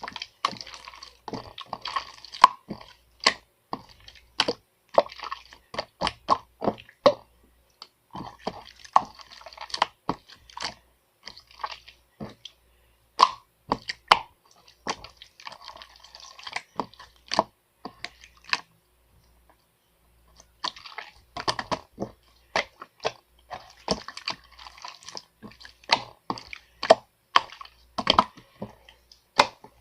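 An irregular run of sharp clicks and taps with a moist, crackly texture, pausing for about two seconds a little past the middle.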